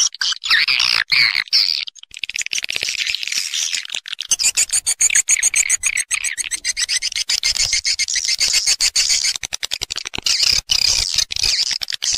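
Edible-nest swiftlets twittering in a dense, unbroken stream of rapid high chirps and fast trills. It is the roosting call (suara inap) that swiftlet farmers play to lure swiftlets into a bird house to nest.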